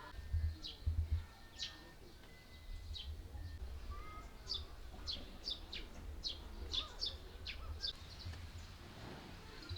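Small birds chirping: many short, sharp, high chirps in quick succession, over a low rumble with a couple of louder bumps about a second in.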